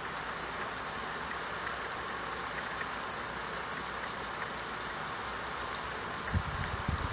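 Steady rain falling, an even hiss of many drops. A few low thumps near the end.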